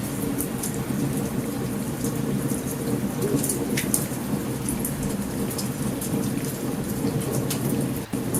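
Campfire crackling and popping in short, sharp snaps over steady heavy rain and a low continuous rumble of a thunderstorm.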